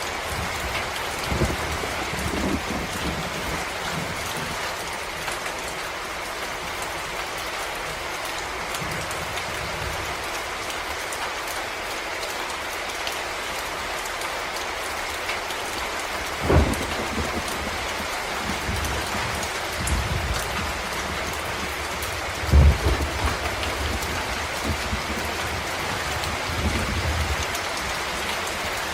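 Steady rain falling on forest leaves and ground, an even hiss, with a few short low thumps; the loudest come just past the middle and about three-quarters through.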